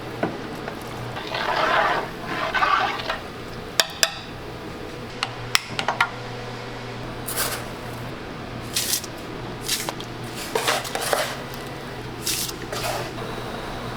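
Metal cookware and utensils being handled: scattered sharp clinks and short scraping or rustling sounds, over a steady low hum.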